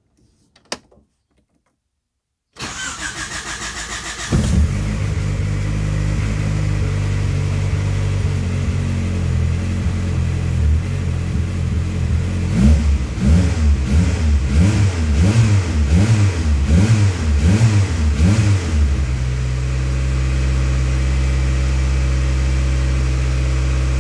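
Turbocharged Honda D16Z6 SOHC four-cylinder cranking on the starter for a couple of seconds and catching, then running. About halfway through it is revved in a string of quick blips, then settles to a steady idle. This is its first start after the loose connecting-rod bolts were retorqued and fresh oil put in.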